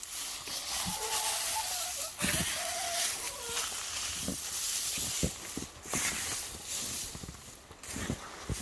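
Rustling and crunching in a chicken coop, with two short, low, wavering clucks from a hen early on and several sharp knocks later.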